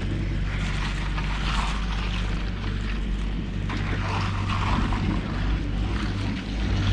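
A steady low engine drone with rushing noise that swells and fades every second or two.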